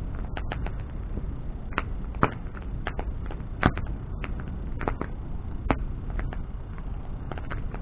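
Wood bonfire crackling, with sharp pops at irregular intervals over a steady low rumble; the loudest pops come about two, three and a half, and five and a half seconds in.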